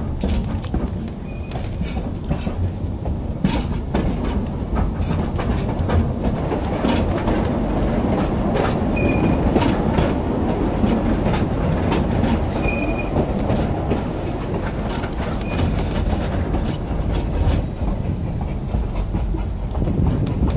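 Durango and Silverton narrow-gauge train rolling along the track: a steady rumble with irregular clicks of the wheels over rail joints and a few short, high wheel squeals.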